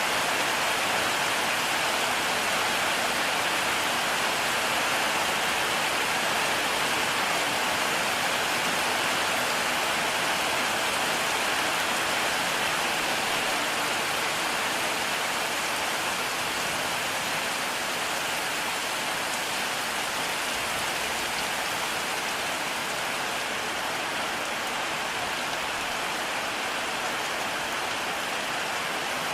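Heavy rain falling steadily, an even hiss with no thunder, easing a little in loudness near the end.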